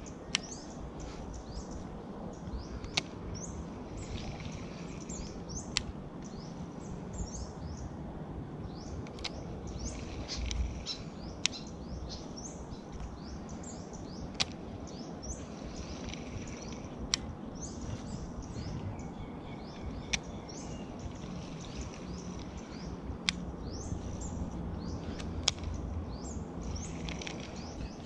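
Small birds chirping over and over in short, falling calls, over a steady low background hum, with a sharp click every few seconds.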